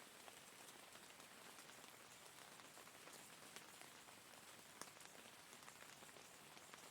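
Faint, steady rain: an even hiss with scattered single drops ticking now and then.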